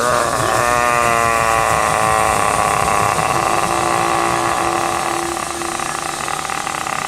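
Vehicle engine sound, likely an added train effect, running with its pitch sliding down over the first two seconds and then holding steady.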